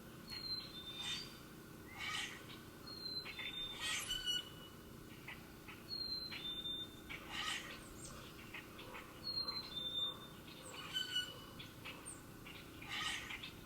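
Songbirds calling: short, high whistled notes that come back about every three seconds, mixed with brief sharp chirps.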